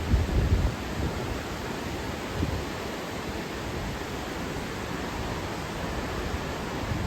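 Steady rushing of fast-flowing floodwater from the swollen Wien River. Wind gusts buffet the microphone in the first second.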